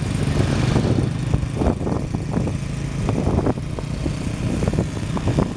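Motorcycle engine running steadily, with frequent short irregular bursts of noise over its low hum.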